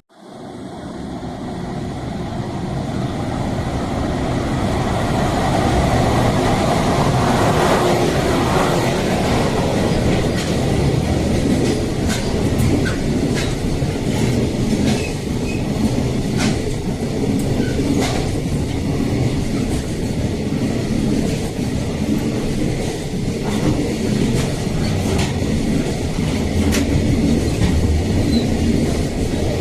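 Freight train passing close by: a long, continuous rumble that swells in over the first few seconds and then holds steady, with wheels clacking over the rail joints.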